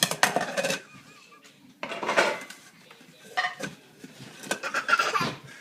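Dishes and cutlery clattering as they are handled and stacked, in about four separate bursts: one at the start, then about two, three and a half, and five seconds in.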